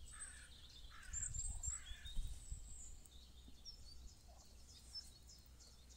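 Faint birds chirping, mostly in the first two or three seconds, over a low steady rumble.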